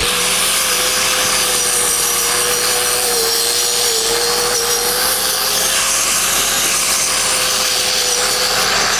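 Angle grinder running steadily against the steel pipe weld, with a steady motor whine over a grinding hiss, cleaning up the fill pass between weld passes. It is switched off right at the end and starts to wind down.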